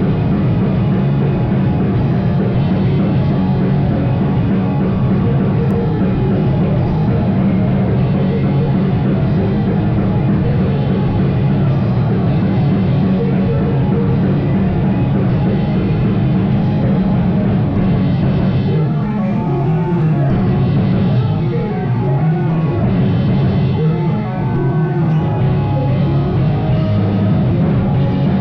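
A live rock band playing loudly: drums and amplified instruments in a dense, continuous mix, with a melodic line coming forward from about two-thirds of the way in.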